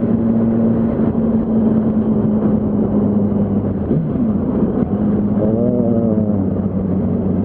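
Yamaha R1's inline-four engine running steadily at low revs while riding in slow traffic, with wind and road noise. About two-thirds of the way in comes a brief wavering tone.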